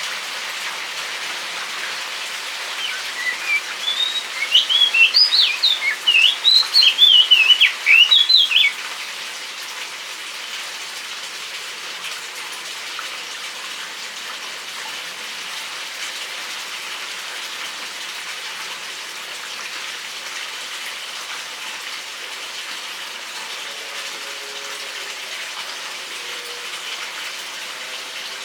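Steady rain pattering on an aviary. A bird sings a loud, quick run of twittering, gliding notes for about six seconds, starting a few seconds in.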